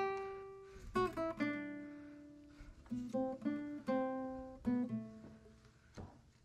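Acoustic guitar music: slow plucked notes and small chords, each starting sharply and ringing out before fading.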